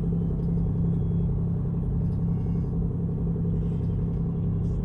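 Steady low drone of a ship's engine and machinery, with a fast, even pulsing over a constant hum.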